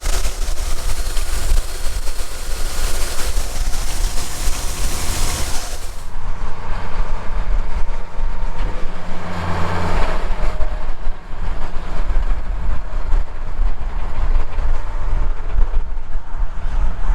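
Farm tractor running with a steady low rumble, as when pulling a planter across the field. A loud hiss over it for the first six seconds stops abruptly.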